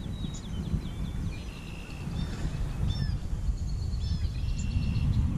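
Birds chirping and whistling in short, gliding notes over a steady low rumble.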